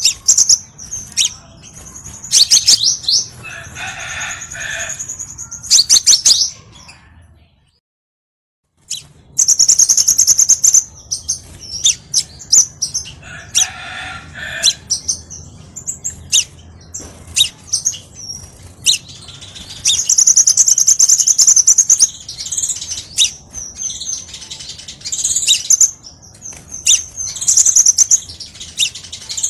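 Crimson sunbird (kolibri sepah raja) singing: rapid, high-pitched chirps and trills repeated in bursts, with a brief gap of silence about eight seconds in.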